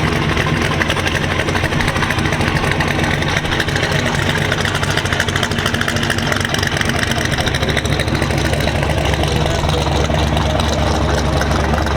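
Car engine idling with a loud exhaust, a steady fast pulsing, the low rumble growing stronger near the end.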